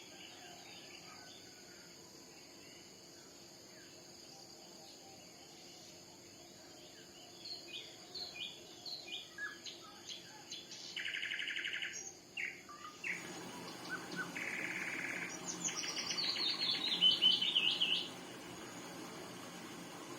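Songbirds chirping and singing, faint at first and louder from about seven seconds in, with two short buzzy trills and, near the end, a quick run of notes falling in pitch before it drops back to faint chirps.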